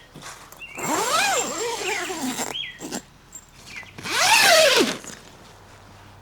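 Domestic cat meowing twice: a long, drawn-out call that rises and falls in pitch, then a shorter one a couple of seconds later.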